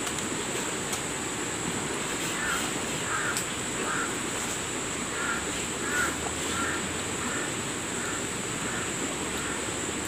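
Rural outdoor ambience: a bird calling in a run of short notes about twice a second, starting a couple of seconds in, over a steady high-pitched insect drone.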